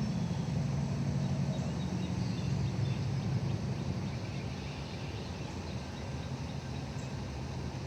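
Outdoor ambience: faint bird chirps above a low rumble that fades about halfway through.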